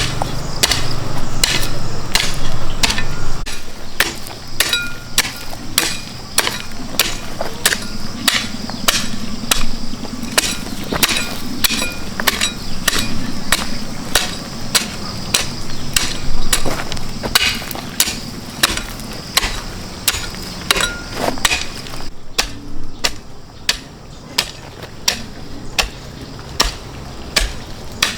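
Repeated tool blows at a steady pace of about two a second, each a sharp strike with a brief ring. They grow softer over the last few seconds.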